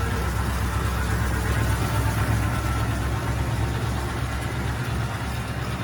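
Cadillac Series 62 convertible's V8 engine running steadily, a low even hum.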